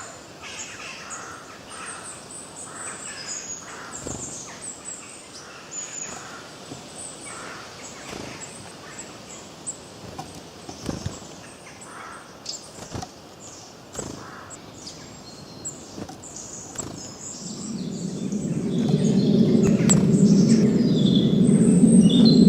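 Forest birds chirping and singing, many short calls overlapping, with a few sharp clicks. In the last few seconds a loud low rushing noise swells up and dominates.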